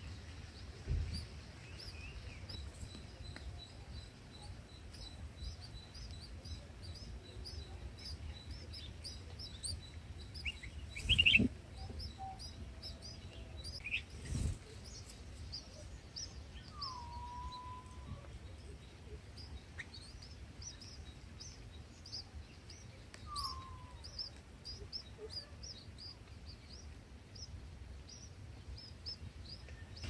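Many short, high bird chirps repeat steadily, with a couple of lower slurred bird calls later on. Two brief dull knocks come about a third of the way in and around the middle, and they are the loudest sounds.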